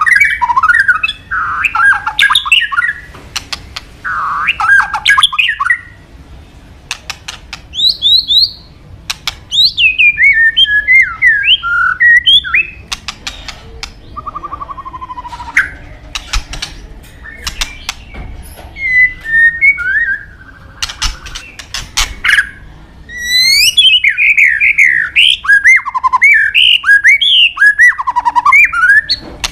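White-rumped shama singing: varied phrases of sweeping, warbled whistles broken by short pauses, with sharp clicks between the phrases and a few very high quick notes.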